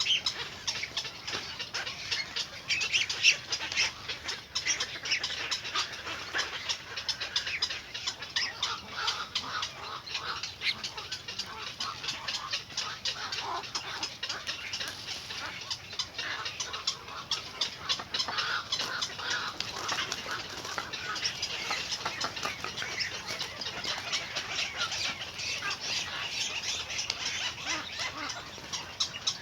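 Small birds chirping in a continuous stream of rapid, short, overlapping calls.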